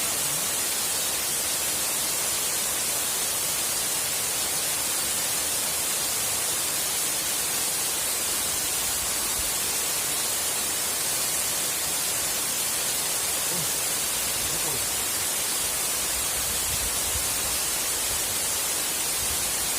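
Waterfall rushing with a steady, even hiss.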